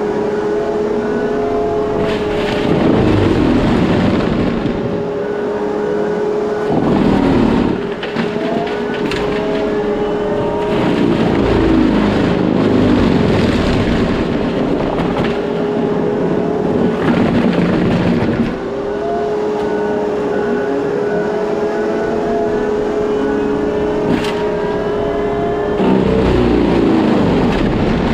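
Case skid steer running a Shearex forestry mulching head, its spinning drum giving a steady whine. About five times the pitch sags and a louder grinding rises as the head bites into weeds and brush and loads down, then it recovers.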